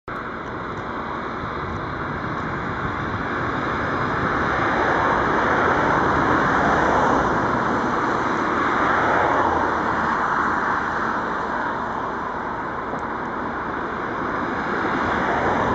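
Steady rumble of vehicle noise from engines and traffic. It swells louder about halfway in, eases, then rises again near the end.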